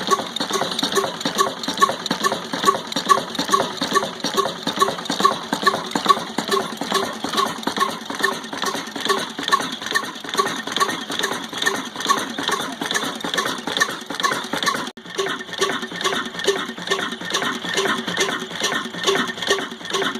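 Old Ruston Hornsby stationary diesel engine running steadily under load, driving a chakki flour mill: an even, rhythmic mechanical clatter of regular beats, with a brief break about 15 seconds in.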